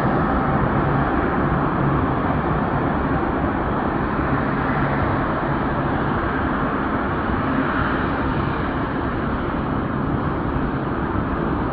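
Airbus A320's twin jet engines at takeoff power: a steady, loud rumbling roar that fades slightly over several seconds.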